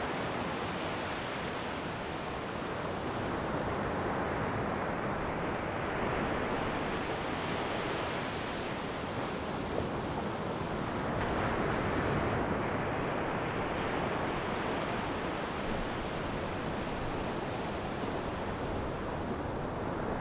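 Ocean waves washing onto a shore, a continuous surf rush that swells and recedes every four to five seconds, the strongest swell about twelve seconds in.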